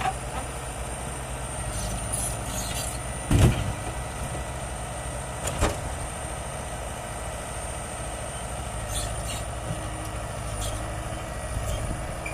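Heavy diesel earthmoving machinery running steadily, with a loud knock about three and a half seconds in and a smaller one a couple of seconds later.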